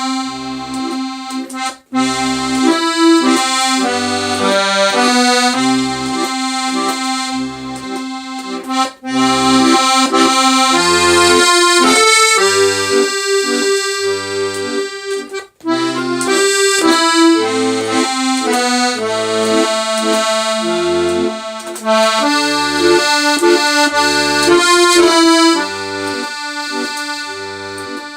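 Accordion playing a song melody in held notes over a steady left-hand bass, with a low bass note about once a second. The playing breaks off briefly a few times.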